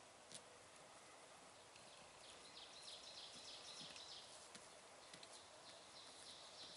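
Faint, rapid, high-pitched chattering calls from a bird in two runs of a second or two each, over quiet outdoor background with a few small clicks.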